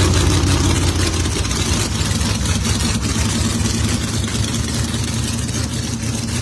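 Drag race car's big engine idling with a loud, steady low rumble, fading slightly.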